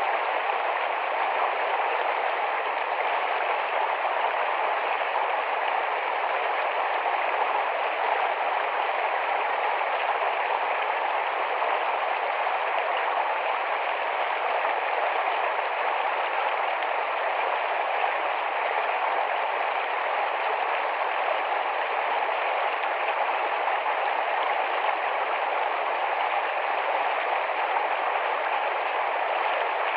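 Small shallow forest stream running fast over stones, a steady rushing babble of water.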